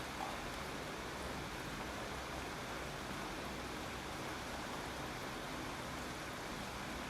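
Steady rain falling, a continuous even hiss with no distinct drops or breaks.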